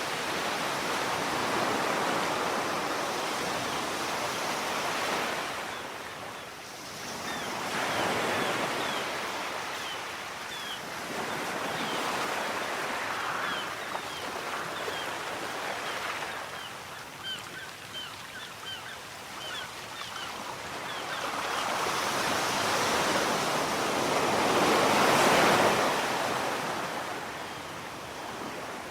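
Sea surf: waves breaking and washing up the shore in slow swells every few seconds, the biggest one a little before the end. Through the middle, many short high bird calls sound over the surf.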